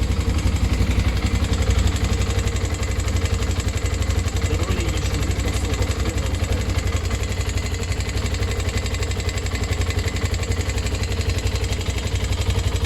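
Engine idling steadily with a fast, even beat, which the owner is checking for a possible knock.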